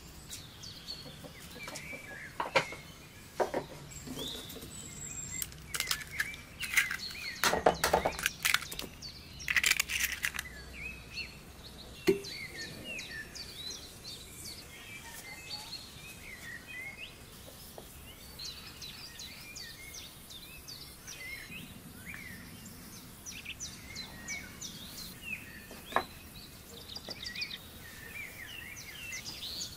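Small birds chirping and calling throughout. A run of sharp knocks and clatters, the loudest sounds here, comes in the first dozen seconds, then a single knock later on.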